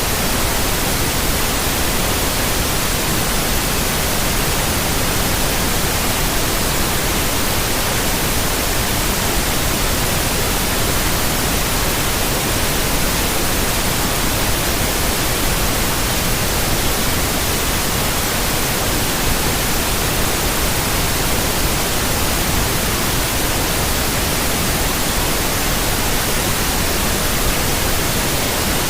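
Steady synthetic white noise: an even hiss spread across all pitches, unchanging throughout.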